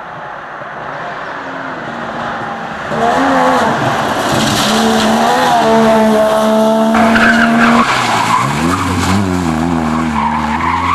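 A race car approaching and growing louder over the first few seconds, then its engine running loud at high revs. From about eight seconds in, the engine note wavers quickly up and down.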